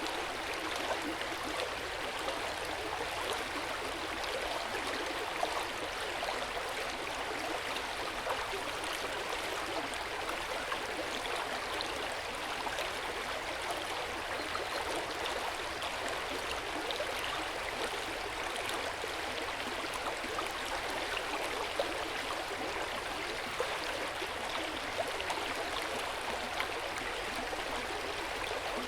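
Hot spring water flowing into an outdoor rock bath: a steady, gentle splashing and gurgling with small drips and plinks scattered through it.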